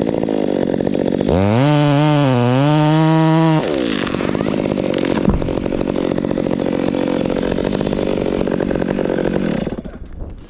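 Two-stroke chainsaw revved to full throttle for about two seconds, its pitch sagging in the middle as if under load in a cut, then dropping back to a rougher idle that fades away near the end.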